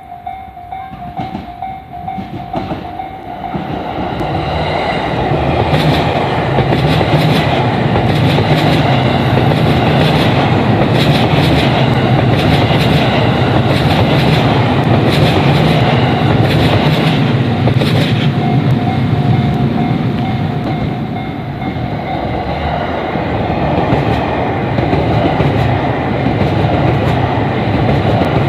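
A train passing over a level crossing, wheels clacking over the rail joints above a heavy rumble that builds over the first few seconds. The crossing's warning bell rings at the start and again about two-thirds of the way through.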